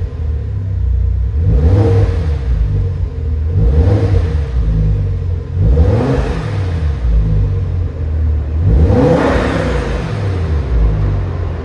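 Audi RS6 twin-turbo V10 engine idling and being revved four times, each rev rising and falling back to idle, the last one near the end the biggest.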